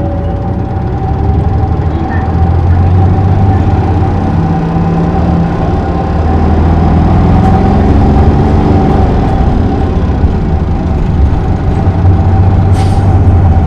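Isuzu Erga city bus heard from inside the cabin while under way. Its inline-six diesel engine and drivetrain run with a steady whine, and the engine note rises about two seconds in as the bus picks up speed. There is a brief hiss near the end.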